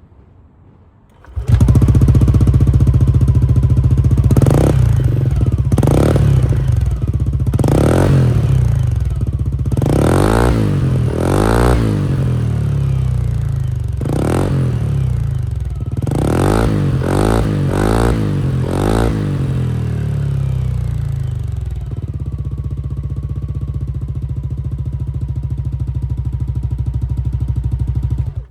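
Yamaha Cygnus Gryphus 125 cc scooter's single-cylinder four-stroke engine, fitted with a Yoshimura exhaust, starting about a second in and idling. It takes about ten quick throttle blips in the middle, settles back to idle, and cuts off suddenly at the end.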